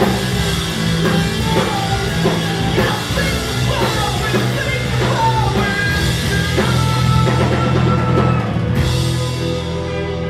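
Live post-hardcore rock band playing: guitars, bass and drums at full volume. Near the end the drums and cymbals stop and the guitars ring on, slowly fading.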